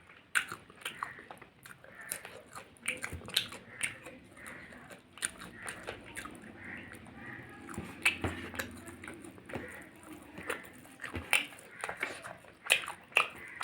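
Close-up eating sounds: a person chewing a meal of chicken curry, rice and roti, with many short wet mouth clicks and smacks throughout.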